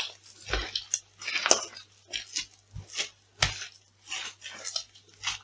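Food being crushed: a quick, irregular run of short crunches and squishes, about two a second, the loudest about a second and a half in.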